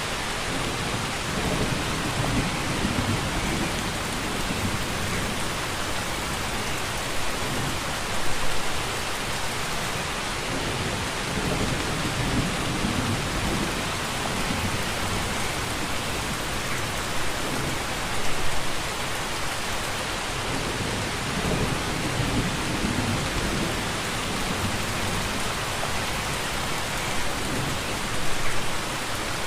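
Steady rain falling, with low rumbling swells underneath and a brief louder surge about every ten seconds.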